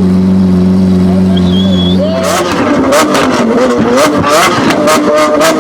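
Lamborghini Aventador V12 engine holding a steady note, then about two seconds in it is revved up and down repeatedly with sharp crackles and pops from the exhaust.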